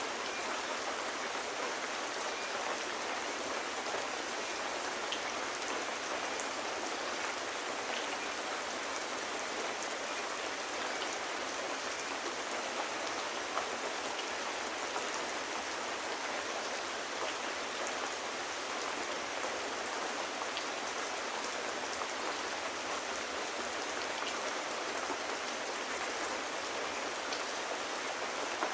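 Steady rain falling on a surface, an even hiss with scattered faint drop ticks throughout.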